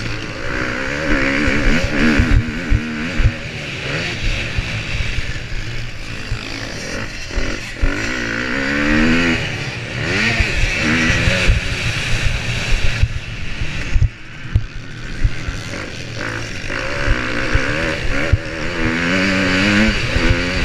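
Motocross bike engine being ridden hard, its pitch rising and falling again and again as the rider works the throttle, under a rushing noise and frequent low thumps and knocks on the on-bike camera.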